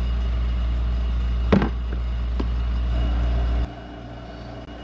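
A steady low mechanical hum with a sharp clank about one and a half seconds in and a lighter knock about a second later; the hum cuts off suddenly near the end.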